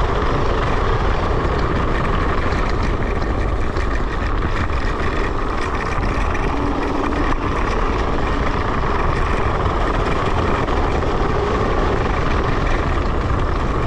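Steady rush of wind and rolling noise from riding an electric scooter, unbroken and fairly loud.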